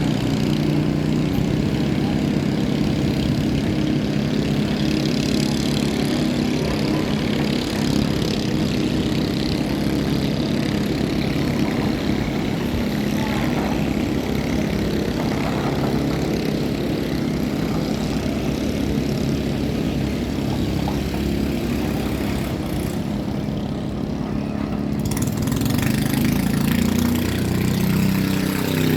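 An engine running steadily, its note shifting near the end.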